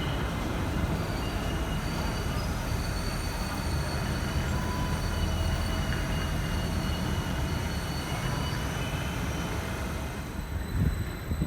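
A train running through the station: a steady low rumble with faint high whining tones that come and go. The rumble eases near the end, with a single sharp knock shortly before it stops.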